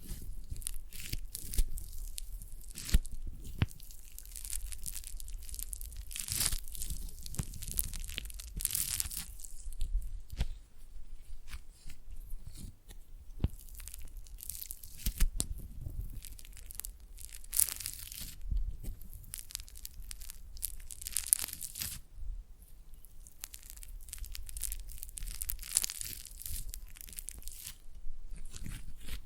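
Foam clay worked close to the microphone, squeezed and pulled apart, giving dense crackly crunching and tearing in quick, irregular strokes.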